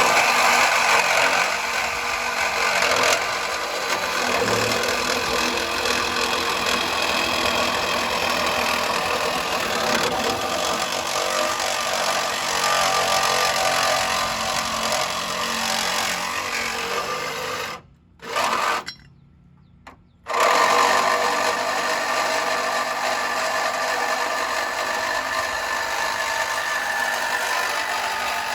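Power saw cutting through an aluminium bracket on a truck chassis. It runs steadily, stops about 18 seconds in, gives a short burst, then cuts again from about 20 seconds on.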